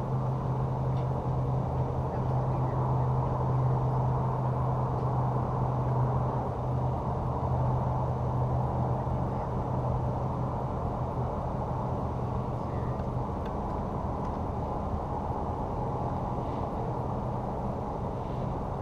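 An engine running steadily, a constant low hum with rumble beneath it.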